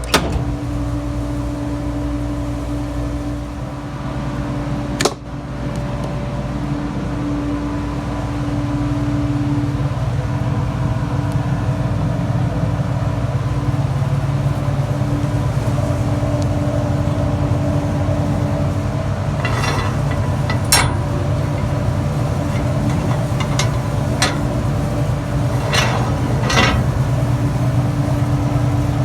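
Farm machinery running with a steady low hum and a constant tone. A sharp knock comes about five seconds in, and several clicks and knocks follow in the last third.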